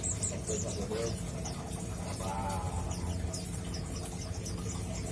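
Mountain white-eye (pleci monty) twittering, a loose run of short, high, quick chirps, with a brief lower-pitched sound about two seconds in.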